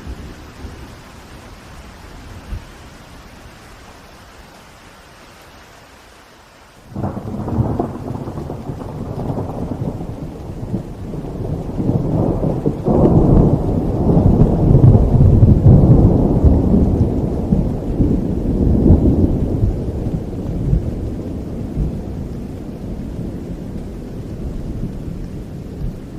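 Steady rain, then about seven seconds in a sudden clap of thunder that turns into a long rolling rumble, building to its loudest in the middle and slowly dying away.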